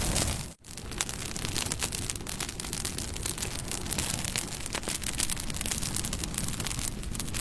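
Bonfire burning, wood crackling and popping over a steady hiss of flame. It cuts out for an instant about half a second in, then carries on.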